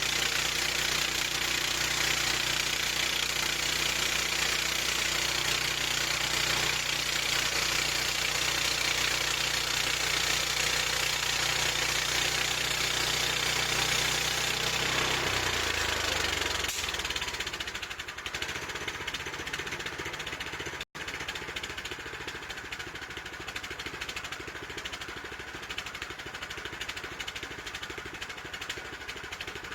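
Gas engine of a bandsaw sawmill running steadily at speed for about fifteen seconds, then slowing and shutting off; a quieter steady hiss remains afterwards.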